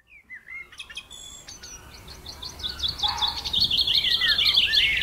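Songbirds chirping and trilling: short swooping calls, then a fast repeated high trill that joins about halfway through. The birdsong fades in and grows louder.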